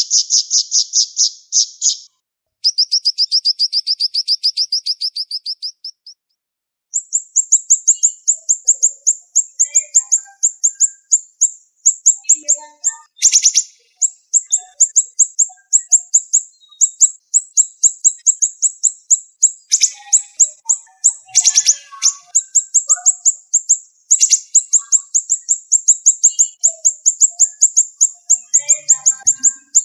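Siri-siri bird singing in very fast, tightly packed trills of sharp, high notes, in long runs broken by short pauses.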